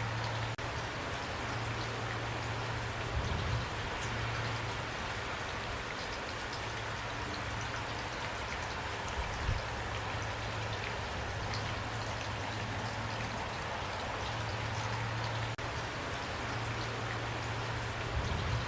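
Steady rain falling, an even hiss with individual drops pattering through it, over a low steady hum.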